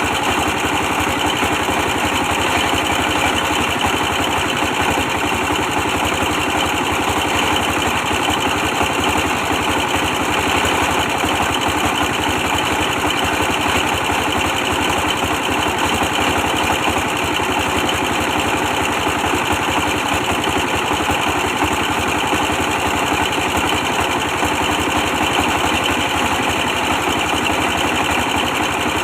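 Old 24 hp stationary diesel engine running steadily at an even speed, driving a brick press machine.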